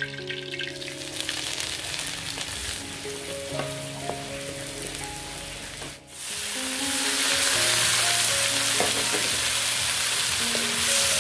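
Shelled snail meat frying in a hot iron wok over a wood fire: a softer sizzle for the first half, then a much louder, steady sizzle from about six seconds in, once the snails go into the pan. Soft background music plays throughout.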